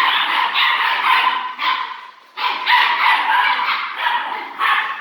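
A litter of puppies yipping and barking together in a dense, overlapping chorus. It breaks off briefly about two seconds in, then starts up again.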